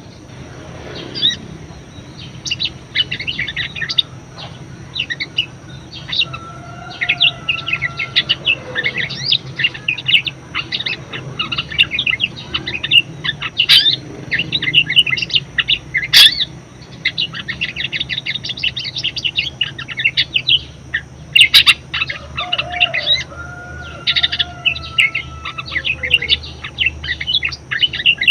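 Budgerigar in full song: a fast, unbroken warble of chirps, clicks and chatter, with a couple of lower drawn-out whistled notes sliding down in pitch about a quarter of the way in and again near the end.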